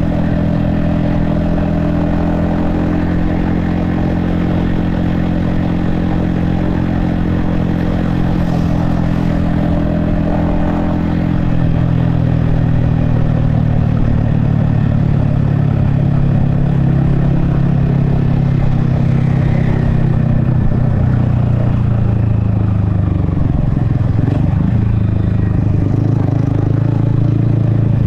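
Yamaha XSR155's single-cylinder engine and exhaust running steadily under way. It gets a little louder and deeper about halfway through, and the pitch dips and recovers briefly near the end.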